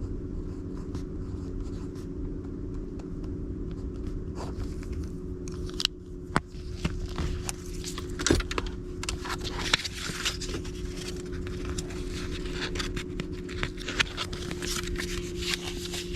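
Paper index cards being handled: scraping and rustling with many small sharp clicks, busier from about six seconds in, over a steady low hum.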